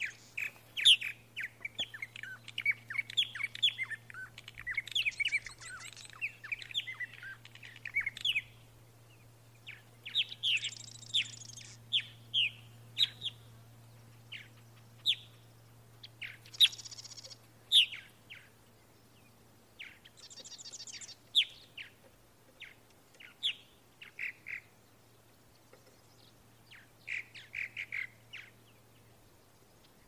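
Birds chirping: many short, high calls in busy clusters with brief pauses, over a faint low steady hum.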